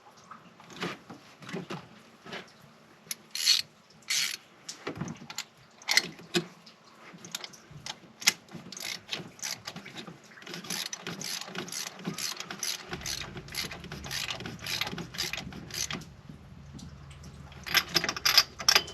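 Socket ratchet clicking as a spark plug is worked loose from the engine: scattered clicks at first, then a long run of rapid ratchet ticks about ten seconds in.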